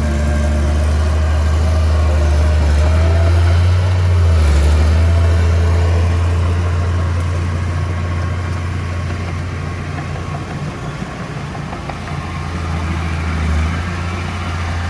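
Diesel engine of earthmoving machinery running with a deep rumble, louder and working harder in the first half, easing in the middle, with a short rise in revs twice near the end.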